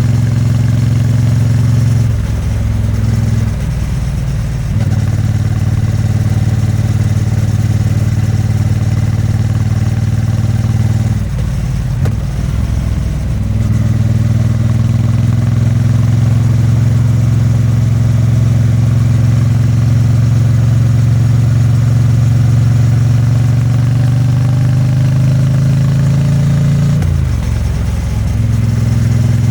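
Triumph Bonneville T100's 900 cc parallel-twin engine and exhaust under way on the road, a steady running note that slowly climbs. Three times the note breaks up for a second or two, about two, eleven and twenty-seven seconds in, then picks up again.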